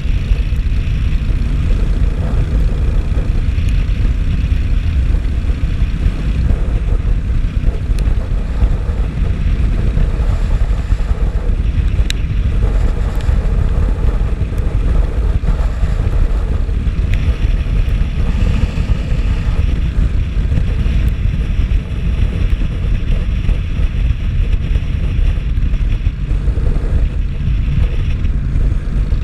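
Steady wind rumble on the microphone with the running noise of a vehicle being ridden on a wet road.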